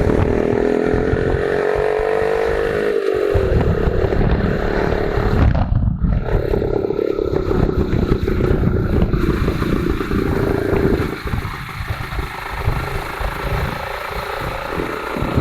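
Motorcycle engine running under way, its pitch climbing over the first couple of seconds, dropping about three seconds in, then holding steady before easing off and getting quieter about eleven seconds in.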